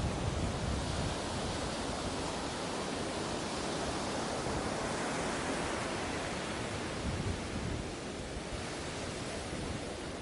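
Ocean waves washing onto a beach: a steady rushing surf that swells through the middle and eases a little near the end.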